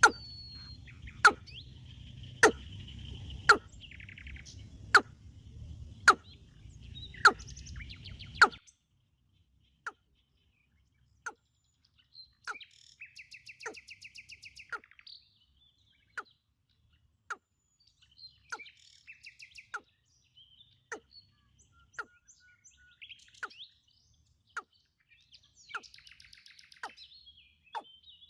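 Birds chirping, with short trilled calls, over a sharp click that repeats about once every second and a quarter. A low background hum cuts off suddenly about eight and a half seconds in.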